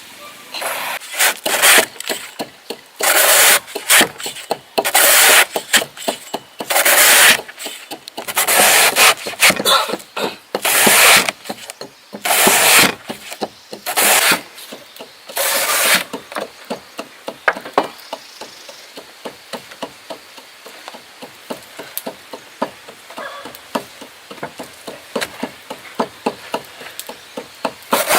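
Rough rubbing or scraping strokes by hand, about one a second, which give way about halfway through to a long run of quick, light knocks several times a second.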